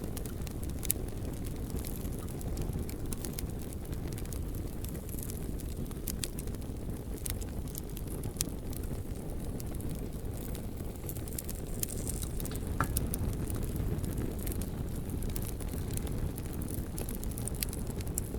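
Campfire burning, with frequent small sharp crackles and pops from the burning wood over a steady low rumble.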